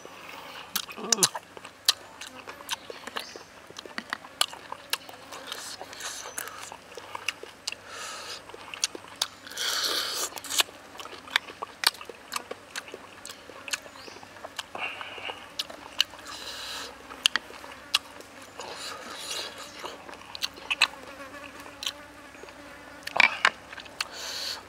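Close-up eating of a fried chicken leg: chewing and lip-smacking, with many short, sharp wet clicks scattered throughout.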